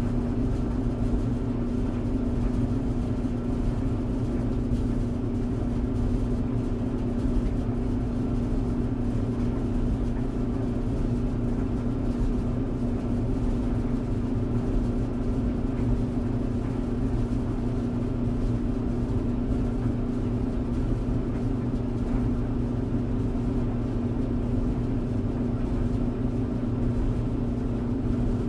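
Tumble dryer running: a steady motor hum with a strong low tone over an even whir and rumble from the turning drum.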